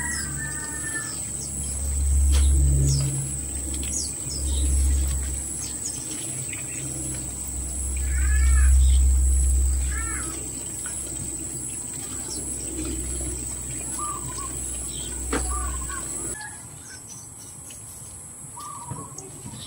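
Birds chirping in short, repeated calls, loudest in a cluster about halfway through, over a low rumble that swells and fades several times and stops suddenly near the end. A few sharp clicks stand out here and there.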